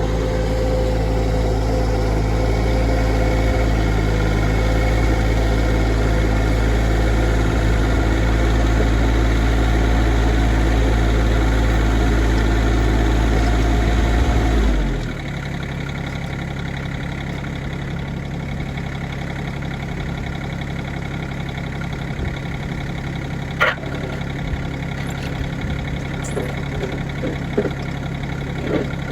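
A motor running steadily, then dropping to a quieter, lower hum about halfway through. There are a few light knocks near the end.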